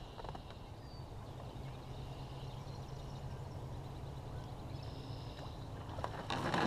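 Quiet open-air lake ambience with faint bird calls, then a few sharp clicks and knocks near the end.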